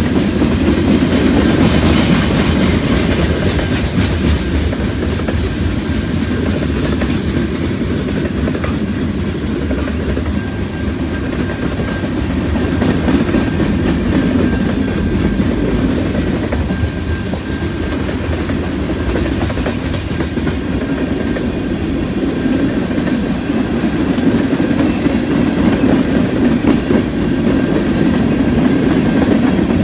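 A freight train's tank cars and covered hoppers rolling past close by, a loud, steady rumble of steel wheels on the rails with a continuous clatter.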